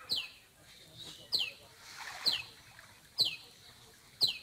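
A bird calling over and over: a short, sharp note sliding downward, repeated about once a second. About halfway through there is a brief soft splash as the bamboo-framed lift net drops into the pond.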